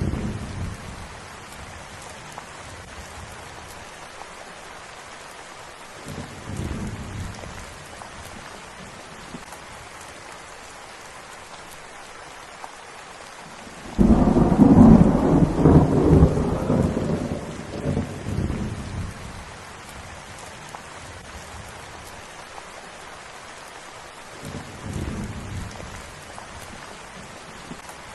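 Steady rain falling, with rolls of thunder: a faint rumble about a quarter of the way in, a loud thunderclap that starts suddenly about halfway through and rolls on for several seconds, and another faint rumble near the end.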